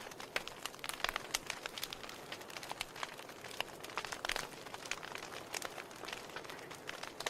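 Wood fire burning in a fireplace, with irregular sharp crackles and pops of the burning logs over a soft steady hiss.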